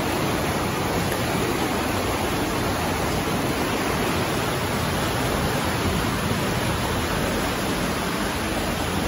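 Steady, unbroken rush of a mountain river pouring through a tunnel at the top of a waterfall.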